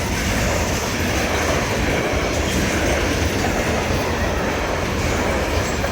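Freight train passing close by: a steady, loud rumble of wagon wheels rolling over the rails.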